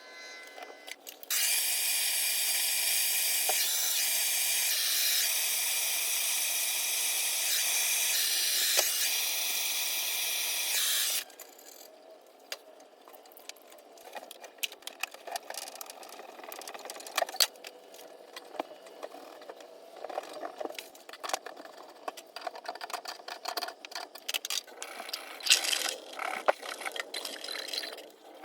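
A power tool runs steadily with a high-pitched whine for about ten seconds, then stops suddenly; after it come scattered clicks and knocks of tools and metal parts being handled.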